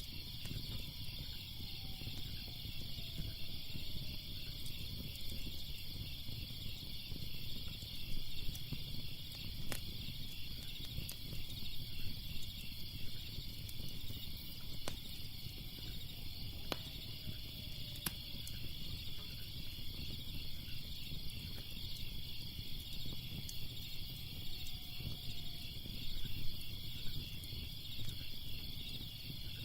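A steady chorus of crickets chirping, over a low crackling rumble of a fire with a few sharp pops.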